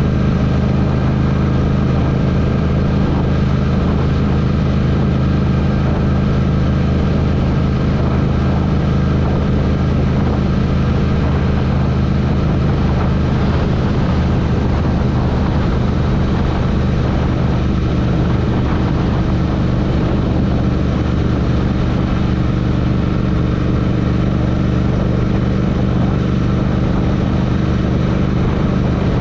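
Royal Enfield Interceptor motorcycle engine running at steady revs, a constant low drone that holds the same pitch with no revving up or down.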